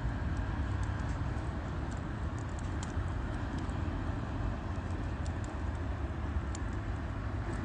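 Wood burning in a UNIFLAME Nature Stove Large fire stove: faint scattered crackles and pops over a steady low rumble.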